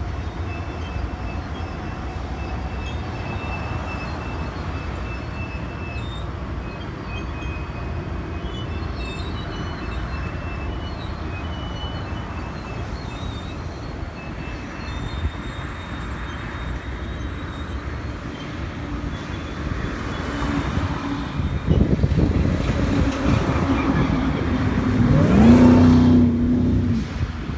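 Diesel train locomotives running with a steady low rumble. Near the end an engine grows louder and rises in pitch, then holds, as if throttling up.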